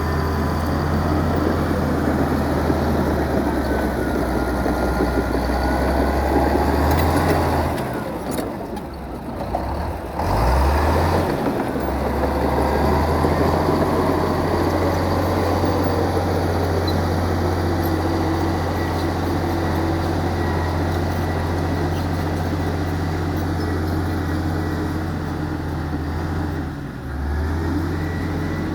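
Heavy diesel earthmoving machinery running under load with a steady low drone. The engine note drops away about eight seconds in and picks up again two to three seconds later, with another short dip near the end.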